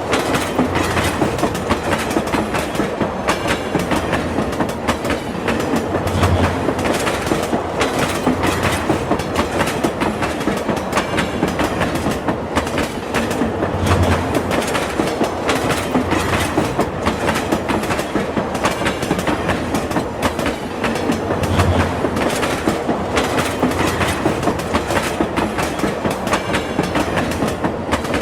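A train running along the rails with a steady rolling rumble and dense clickety-clack from the wheels, and a low thud every two to three seconds.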